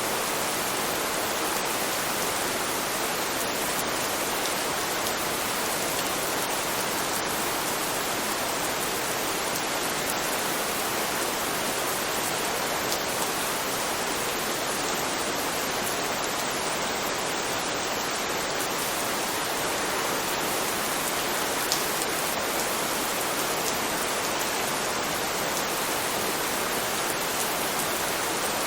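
Steady rain: an unbroken, even hiss of falling rain, with a few faint sharper drop ticks.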